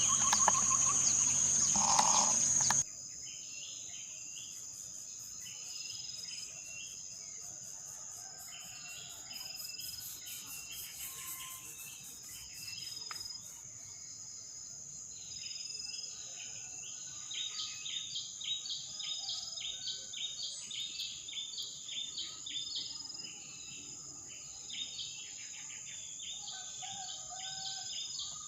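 A steady high insect drone with many short bird chirps coming in runs, busiest in the second half. The first few seconds are louder, with a stronger high buzz, before the sound changes abruptly.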